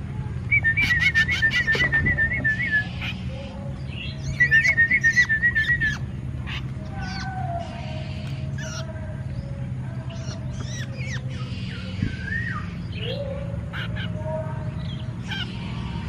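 Birds calling: a high warbling, whistle-like trill twice in the first six seconds, then scattered short chirps and rising calls.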